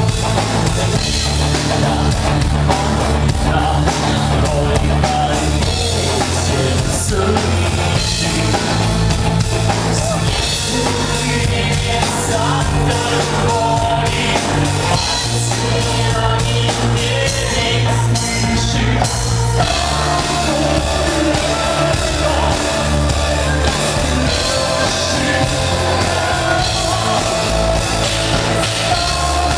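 Rock band playing a song at full volume: a drum kit keeping a steady beat under a heavy bass line, with a singer.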